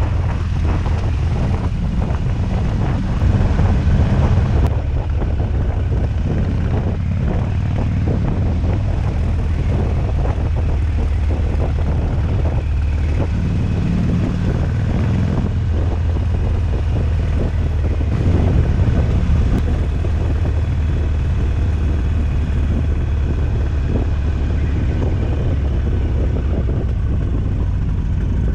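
Harley-Davidson V-twin motorcycle engine running steadily under way, picked up by a camera mounted on the bike, with a deep, even drone.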